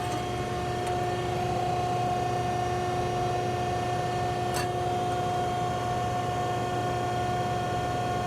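Wysong Model H2510 10-foot power shear running idle between cuts: a steady motor hum with a constant whine, and a single light click about halfway through.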